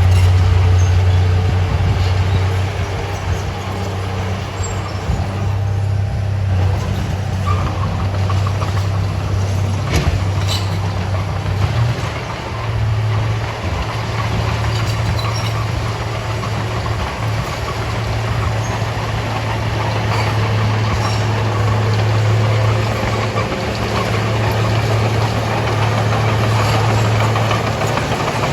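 Heavy diesel earthmoving machinery running steadily under load: a low, even engine drone, with a few sharp clicks or knocks about ten seconds in.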